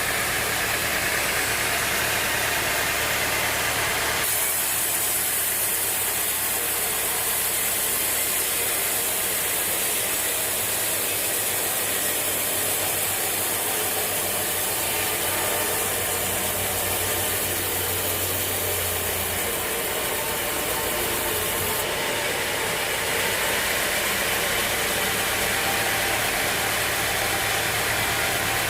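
Sawmill machinery running with a steady engine noise. The sound changes abruptly about four seconds in and again later on.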